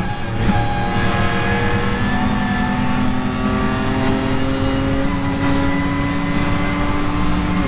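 BMW M2 Competition's twin-turbo straight-six accelerating hard in one gear, its pitch climbing slowly for about seven seconds. Near the end the pitch drops at an upshift.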